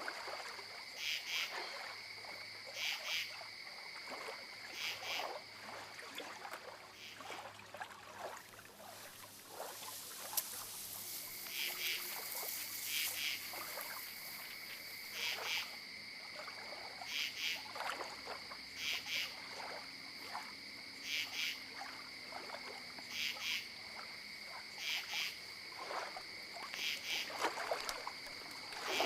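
Small animal calling in short pulsed chirps, one call every second or two, with a pause of several seconds near the middle. A brief hiss sounds about ten seconds in.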